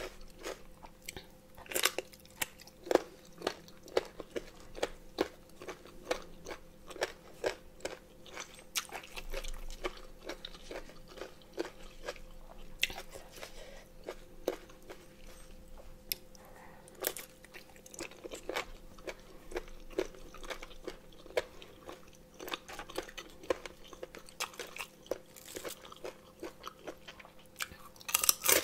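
Close-up eating sounds of crunchy pig ear cartilage being bitten and chewed: irregular crisp crunches and clicks.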